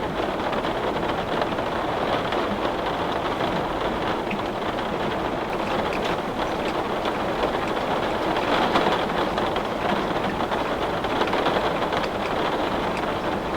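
Heavy rain falling steadily on window glass, a dense even patter with a slight swell about two-thirds of the way in.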